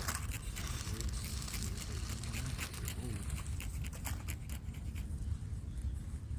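Outdoor ambience: a steady low rumble, like wind on the microphone, with scattered crackling clicks.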